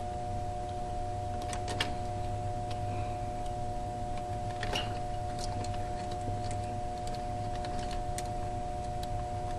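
A few faint, scattered clicks of small parts being handled, as wire terminals and a ground wire are fitted back onto an evaporator fan motor, over a steady background hum.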